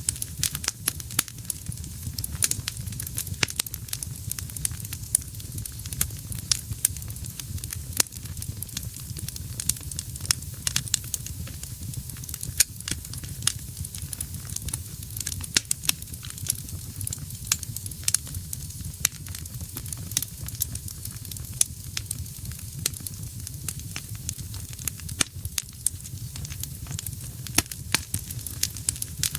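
Wood fire burning in a fireplace: dense, irregular crackles and pops over a steady low rumble of flames.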